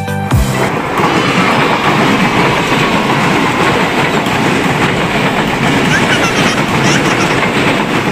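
Electric multiple-unit commuter train passing close by at speed: a steady rush and rumble of its wheels on the rails.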